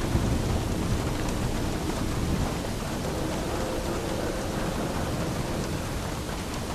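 Steady rain with a low rumble of thunder that eases off over the first few seconds.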